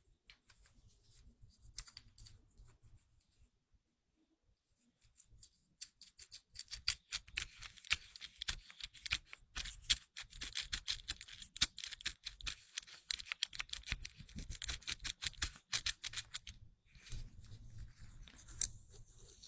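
Fidget cube's dial being turned, giving a rapid run of small plastic clicks: sparse and faint for the first few seconds, then dense and steady from about six seconds in until shortly before the end.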